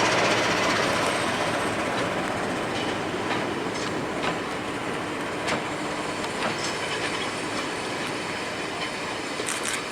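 Train running on the line: a steady rumble of wheels on rail that slowly dies down, with scattered clicks over the rail joints and a brief high wheel squeal near the end.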